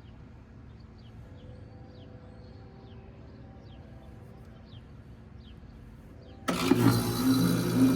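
Carrier Comfort 5-ton heat pump outdoor unit starting up: quiet at first with small birds chirping, then about six and a half seconds in the compressor and fan come on abruptly with a loud steady hum and rush of air.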